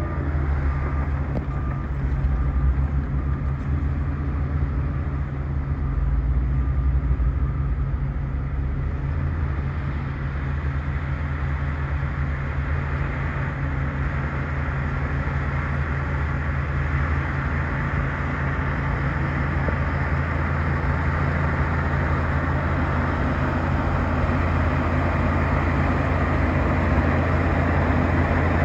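Bulldozer's diesel engine running steadily under load, growing louder in the second half.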